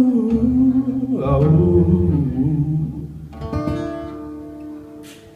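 Closing bars of a solo acoustic guitar and voice song. The singer's last wordless phrase fades out, then a final guitar chord comes in about three and a half seconds in and rings out, dying away.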